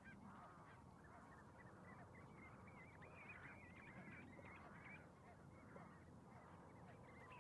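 Faint, busy chatter of a flock of birds calling on the shore. Many short calls rise and fall and overlap each other, with no pause.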